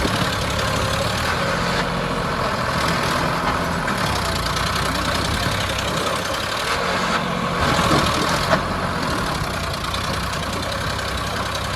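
Tractor diesel engine running steadily under load, swelling slightly about two-thirds through, with one sharp click shortly after.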